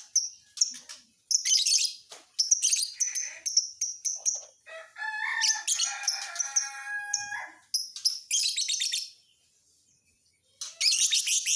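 Lovebird calling: shrill high chirps in quick bursts, with a longer run of notes in the middle. It pauses for about a second and a half near the end, then another burst of chirps.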